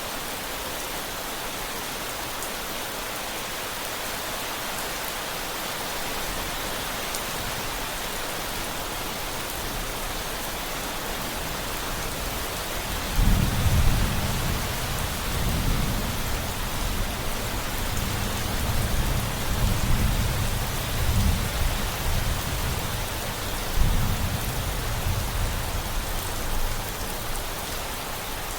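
Steady rainfall with a long roll of low thunder starting about halfway through. The thunder rumbles for over ten seconds, swelling several times before fading near the end.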